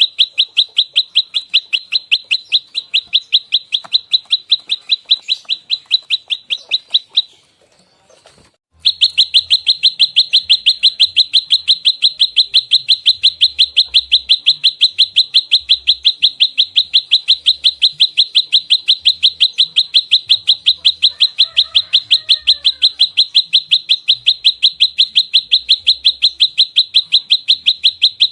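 Prenjak lumut in fighting song: a fast, tightly packed run of sharp, evenly repeated chirps, several a second. The run breaks off for about a second and a half about a quarter of the way through, then resumes.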